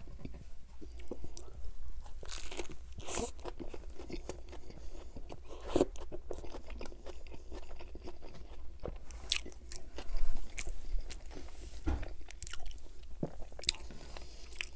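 A person biting into and chewing a Burger King Whopper Jr. burger: irregular crunches and clicks of chewing, the loudest about ten seconds in.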